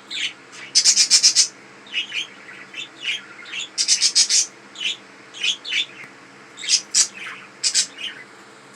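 Pet budgies chirping and chattering in short, quick bursts of high notes, with dense flurries about a second in and again around four seconds.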